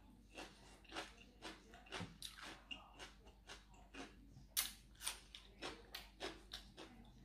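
A person chewing crunchy raw vegetables close to the microphone: wet crunches at about two a second.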